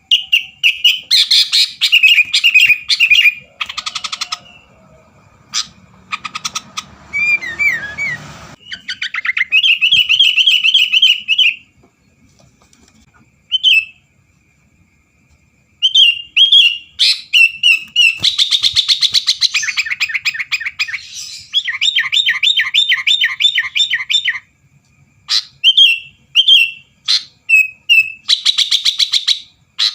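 Sooty-headed bulbul singing: bursts of loud, high chirps and fast trilled phrases, with a pause of a few seconds midway.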